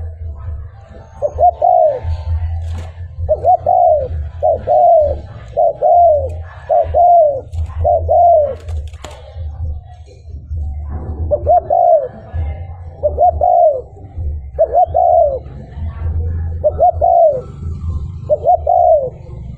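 Spotted dove (cu gáy) cooing over and over, a string of short arched coos with a pause of about two seconds near the middle. A low rumble runs underneath.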